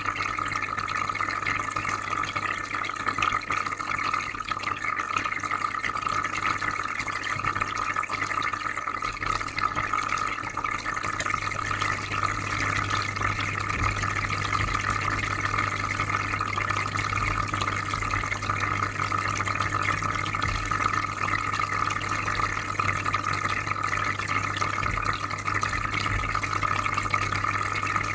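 Aquarium filter running: a steady trickling, bubbling water sound over a low, constant hum.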